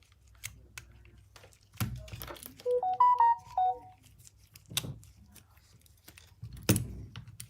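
A short electronic jingle of a few steady beep-like notes, about a second long, about three seconds in. Scattered clicks and knocks of handling run around it, the loudest near the end.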